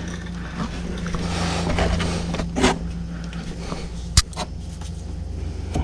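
A few light clicks and rustles from handling a plastic fog light bulb and ballast assembly, over a steady low hum.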